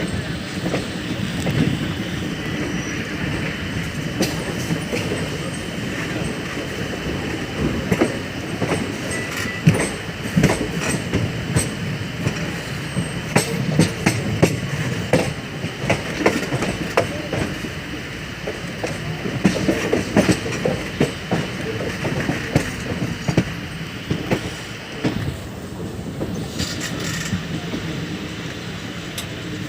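Moving express passenger train, the 17644 Circar Express: a steady running rumble with many irregular sharp clicks and clatter from the wheels on the rails.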